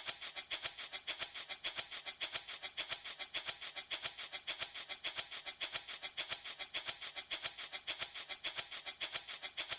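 Handmade wooden baby rattle shaken back and forth in a quick, even rhythm, about five to six rattling shakes a second, the beads or pellets inside giving a bright, dry rattle.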